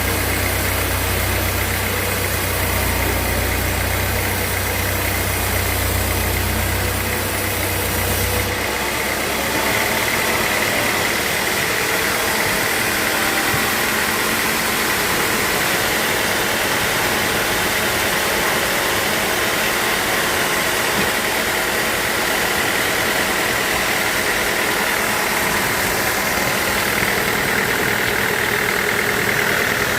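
Sawmill machinery running steadily, a machine hum with a high steady whine. A deep low rumble cuts off about eight seconds in.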